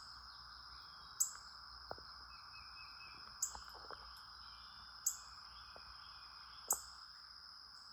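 A bird gives short, sharp, high chip calls, one about every second and a half, over a steady high insect trill.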